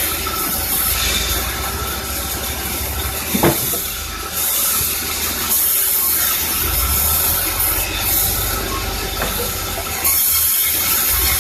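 Sawmill machinery running with a steady low rumble and a hiss that swells and fades, with one brief sharp sound about three and a half seconds in.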